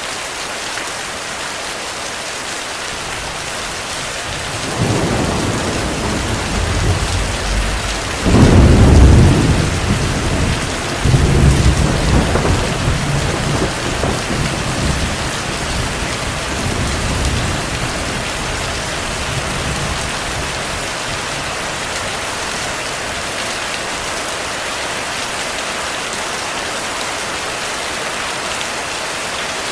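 Steady heavy rain, with a long roll of thunder that starts about five seconds in, peaks twice in deep rumbles, then fades away into the rain.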